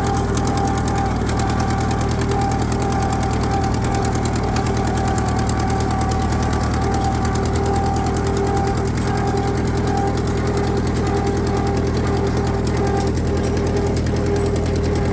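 Ford 9N tractor's four-cylinder flathead engine running steadily while the tractor is driven, with a fast, even firing beat and a steady higher tone over the engine note.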